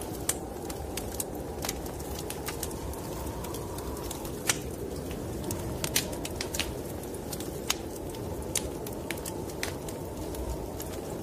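Wood fire in a fireplace crackling, with sharp irregular pops and snaps over a steady low rushing noise.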